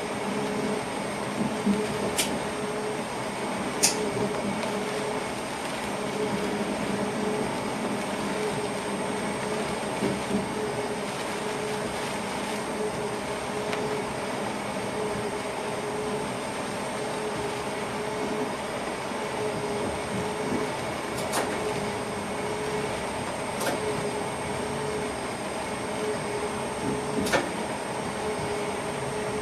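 Train heard from inside the driver's cab while running between stations: a steady running noise with a faint hum and a high whine. Sharp clicks stand out a few times: twice near the start, then three times in the second half.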